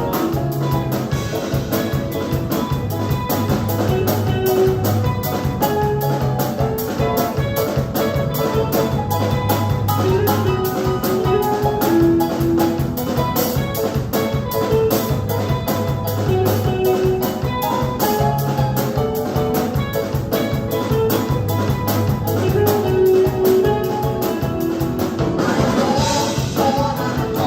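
Live gospel praise band playing an instrumental passage, drum kit keeping a steady beat under bass and keyboard lines.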